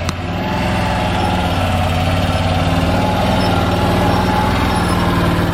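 A small vehicle's engine idling steadily at an even pitch.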